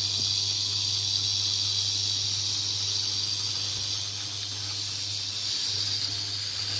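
Chicken breast fillets frying in a hot pan: a steady sizzling hiss, with a steady low hum underneath.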